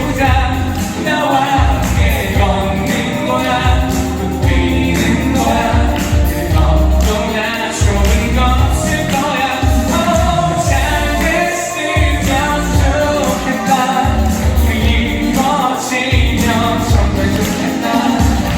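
Male vocalist singing an upbeat Korean pop song over full band accompaniment with a steady beat.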